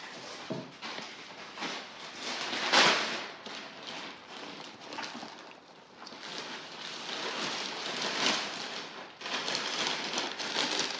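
Plastic packaging rustling and crinkling as parcels are handled and bagged, in uneven crackly bursts with louder swells around three seconds in, near eight seconds and near the end.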